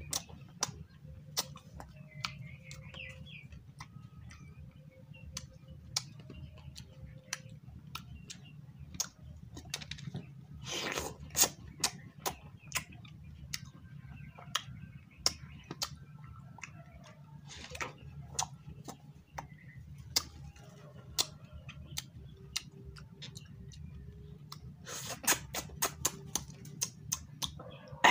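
Close-miked wet mouth sounds of eating juicy watermelon: irregular clicks and smacks of chewing, with a few longer, noisier bites. A steady low hum runs underneath.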